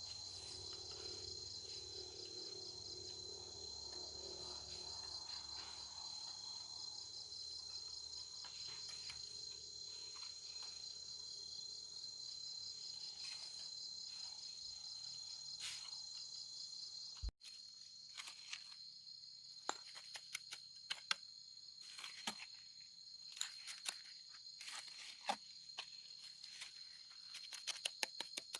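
A steady chorus of insects chirring in a high, even pulse. Partway through, the sound cuts out abruptly, then resumes with scattered sharp clicks and taps over the insects.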